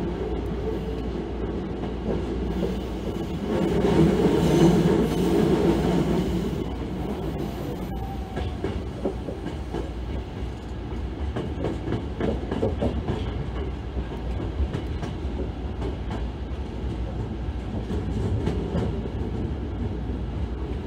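Hankyu 9000 series electric train running over the station-throat points, heard from inside the leading car. A steady rumble of wheels on rail grows louder a few seconds in, then comes a run of clacks as the wheels cross the rail joints and crossings.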